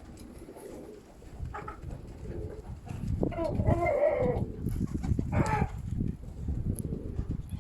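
Strong wind buffeting the microphone in gusts, with domestic pigeons cooing and a louder, wavering bird call about three seconds in and another shortly after.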